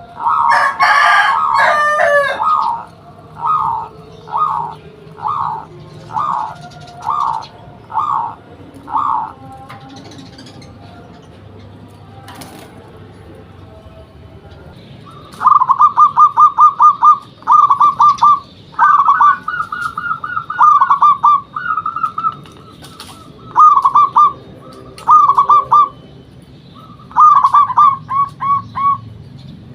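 Zebra dove (perkutut) cooing song. A row of short, evenly spaced coos about every 0.7 s, a few seconds' pause, then bursts of quick rolling coos in clusters, as the bird sings.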